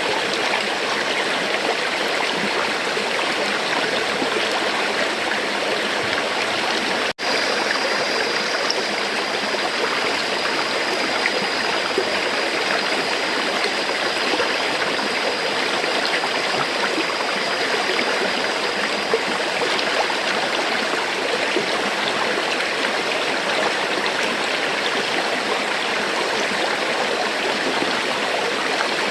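River water flowing steadily with an even rushing sound. The sound drops out for an instant about seven seconds in, and a faint high steady tone sits over the water for roughly the next fourteen seconds.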